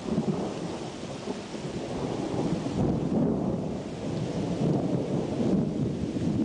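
Thunderstorm: a long rumble of thunder that swells and eases in waves, over steady rain.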